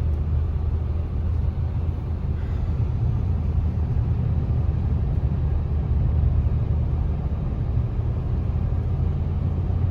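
Steady low rumble of a car being driven on a snow-covered road, heard from inside the cabin: engine and tyre noise.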